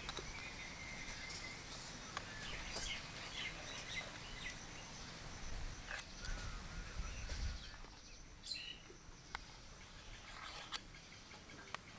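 Small birds chirping on and off over low outdoor background noise, with a few light, sharp clicks.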